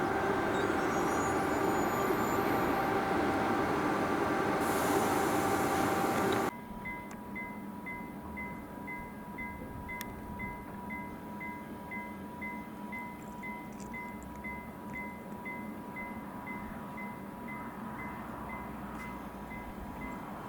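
A train running past, loud with a whining hum, which cuts off suddenly about six seconds in. Then a railway level-crossing warning bell rings about twice a second.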